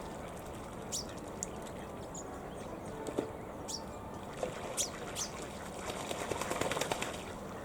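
Wild birds calling: several short high chirps scattered through, then a rapid run of clicking notes near the end, over a steady low rush.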